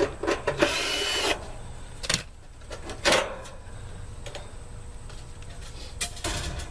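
Scattered metal clicks and knocks from hand work on the sheet-metal access panels of an outdoor air-conditioning unit. A louder rasping burst lasting under a second comes about half a second in, and shorter knocks come near three seconds and near the end.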